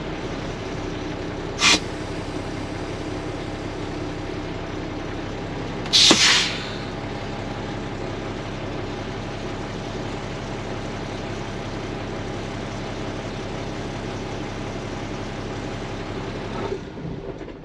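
International DT466 diesel engine of a dump truck idling steadily while its newly fitted air compressor builds air, with two sharp hisses of air release from the truck's air system, a short one about two seconds in and a longer one about six seconds in. The engine sound stops near the end.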